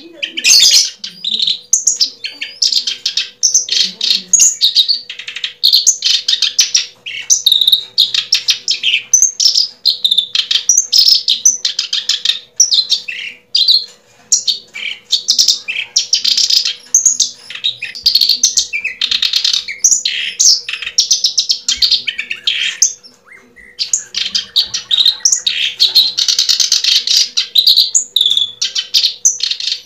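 Birds chirping and twittering continuously in quick, overlapping high calls, with a faint steady hum underneath.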